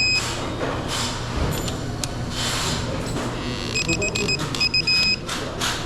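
Electronic beeping from a digital torque wrench while engine case bolts are tightened: a quick series of short beeps about four seconds in, ending in one longer held beep as the set torque or angle is reached. Ratchet clicks and tool knocks sound throughout.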